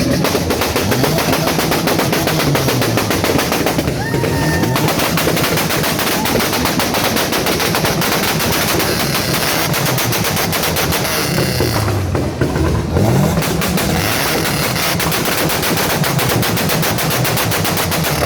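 Car exhaust crackling and banging in a rapid, machine-gun-like string of backfires as the engine is held against a two-step launch-control rev limiter. Under the pops, the engine's pitch swings up and down as it is revved.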